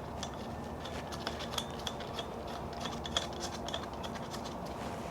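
Scattered light metallic clicks and clinks of small tools and parts being handled, over a faint steady hum.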